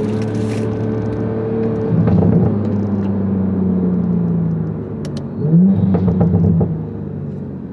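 Toyota Supra's B58 turbocharged inline-six running through a titanium exhaust and catted downpipe. The engine pulls harder about two seconds in and its revs sag slowly, then rise in a quick burst around five and a half seconds in before easing off near the end.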